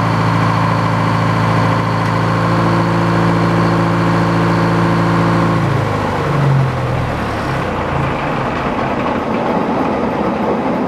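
Portable sawmill's engine running steadily; about six seconds in its pitch drops and a rougher, noisier machine sound takes over.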